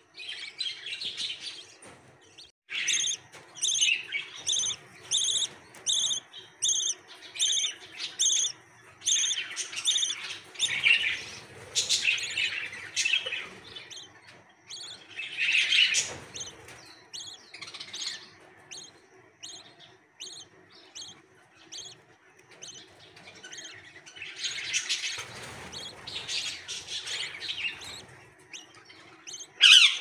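Birds chirping: a steady run of short, high chirps, about two a second, for several seconds. Then come scattered chirps and a few longer, hissy stretches of calling.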